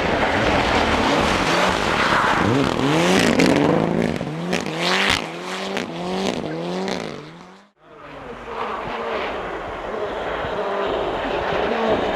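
Rally car engine at high revs, its pitch climbing and dropping several times in quick succession. It cuts off abruptly about eight seconds in, and steady engine noise of a rally car follows.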